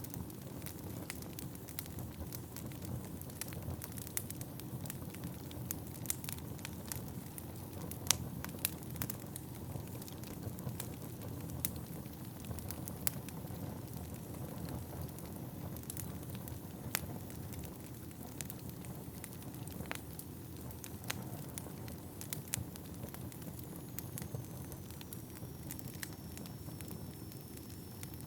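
Wood fire burning in an indoor fireplace: a steady low rush of flames with frequent irregular sharp crackles and pops of the burning logs, one louder pop about a third of the way in. Near the end a faint thin high whistle glides slightly downward.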